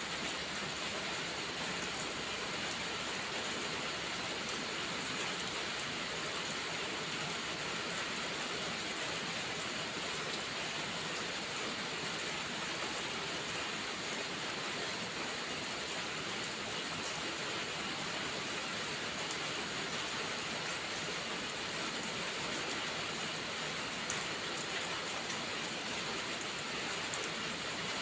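Steady rain falling: an even hiss with faint scattered ticks.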